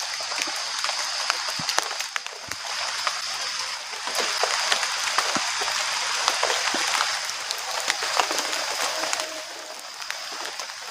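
Rain falling steadily, with many sharp individual drop hits heard close by.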